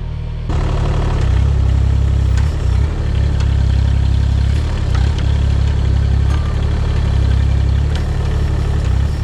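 Mini excavator's diesel engine running steadily under work, getting louder about half a second in, with scattered short knocks over it.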